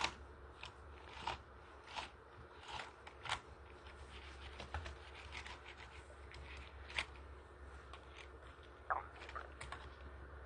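Scattered sharp clicks and taps at irregular intervals, loudest at the start and about nine seconds in, over a steady low hum.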